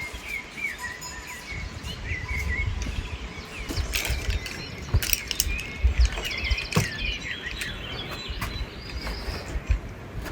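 Small birds chirping and twittering, over a low rumble, with a few sharp clicks midway.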